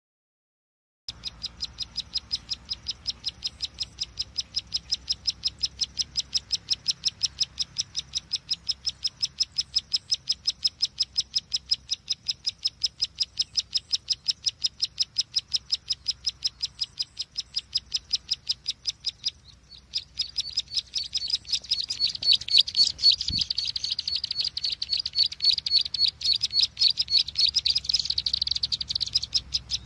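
Lure-call recording of the ciblek sawah (ciwa), a small prinia songbird: a fast, even run of high ticking notes, breaking off briefly about two-thirds through, then resuming as a denser, louder trill.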